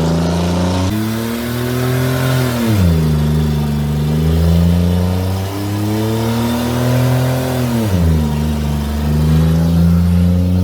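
Buick Century's 3.1-litre V6 held at high revs during a burnout, the engine note climbing and holding, then falling sharply and climbing again twice, about three seconds in and eight seconds in.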